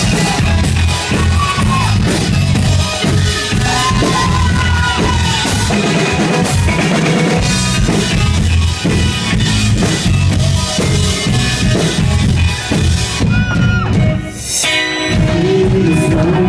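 Live rock band playing, with the drum kit and bass to the fore. The band drops out briefly about two seconds before the end, then comes back in.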